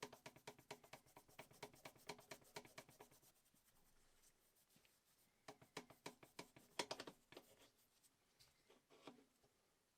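Rapid, rhythmic scratching strokes, about six a second, in two bursts: one over the first three seconds, and another from about five and a half seconds in, with a few more strokes near the end.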